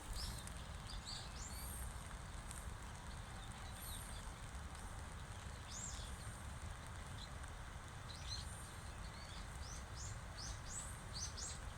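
Small birds chirping in short, high calls scattered throughout, over a steady low rumble of outdoor background noise.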